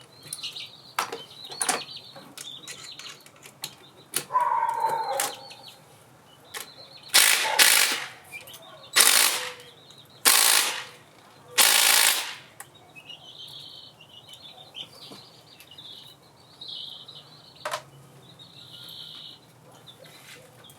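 Tools clicking and knocking on the engine's bolts, then five short bursts of an impact wrench spinning on the fasteners, followed by light metallic clinks.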